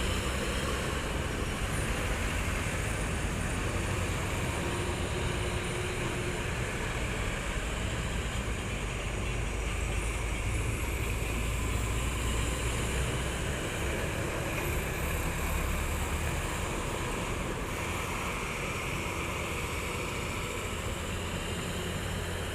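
Trucks' engines running with steady road noise and a low rumble.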